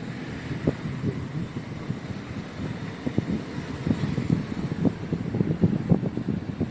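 A car in motion: low rumbling road and wind noise with irregular low thumps.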